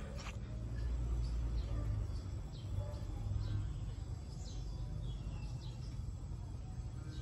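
Small birds chirping, a scatter of short, quickly falling chirps, over a steady low rumble of background noise.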